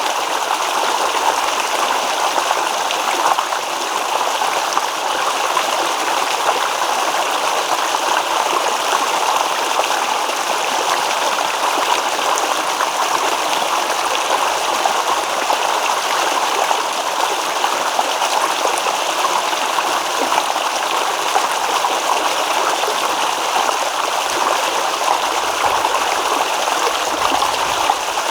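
Shallow stream babbling and rippling over stones, a steady, even rush of water with small trickles.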